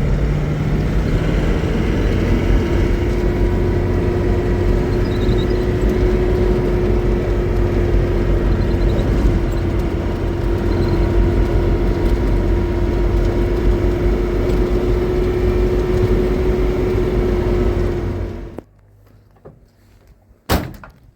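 A motor vehicle's engine running steadily with a constant low hum, then cutting off suddenly near the end. About two seconds later a single sharp knock like a vehicle door being shut.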